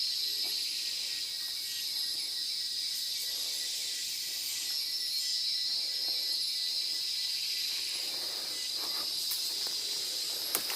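Rainforest insect chorus of cicadas and crickets: a steady high buzz that does not let up, with a faint thin steady tone beneath it that stops about three-quarters of the way through. A single sharp click near the end.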